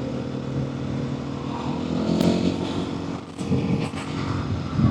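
Motorcycle engine running under way on its stock exhaust, heard through a helmet microphone with wind noise. The engine note dips briefly about three seconds in, then climbs again as it revs up.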